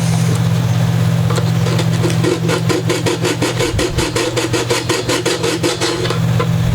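Fast back-and-forth abrasive strokes on wood, about five a second, starting about two seconds in: hand sanding or filing down an instrument body beside the pickup hole, over a steady low hum.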